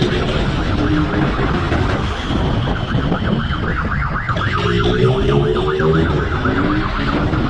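Police siren wailing in repeating rising and falling sweeps over vehicle engine and road noise.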